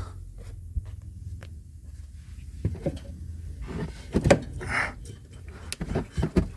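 Scattered knocks and clunks of hand work on a car exhaust as a rubber exhaust mount is worked onto its hanger, the loudest a little past the middle, over a low steady hum in the first half.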